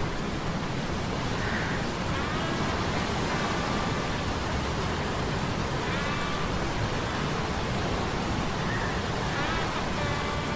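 Sea-storm sound effects: a steady, dense rush of rain and surf, with a faint metallic humming from metal gears that comes and goes every few seconds in short pitched and gliding tones.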